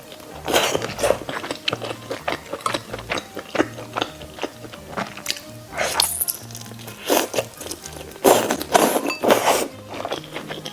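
Crunchy bites and chewing of food, irregular crackly strokes that are densest and loudest near the end, over background music with a repeating low bass line.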